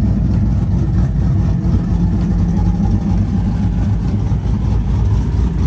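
Truck engine idling steadily with a loud, deep exhaust rumble.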